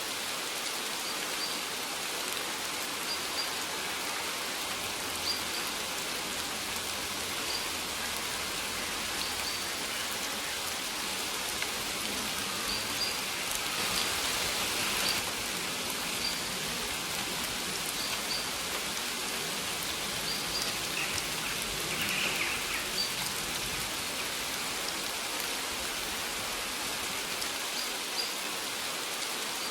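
Steady rain falling, with short, high bird chirps repeating every second or two.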